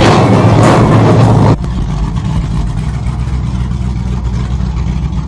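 A car engine, loud at first, then abruptly quieter and steady about a second and a half in, running with a low rumble.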